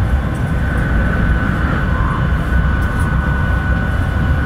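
Cabin running noise of a 700 series Shinkansen: a steady low rumble with a steady high whine over it.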